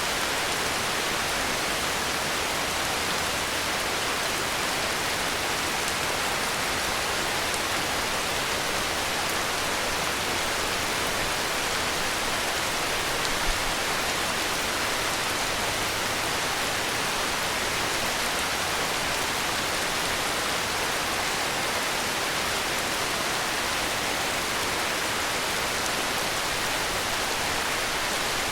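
Steady heavy rain, an even hiss of rainfall that holds the same level throughout. One brief low bump about halfway.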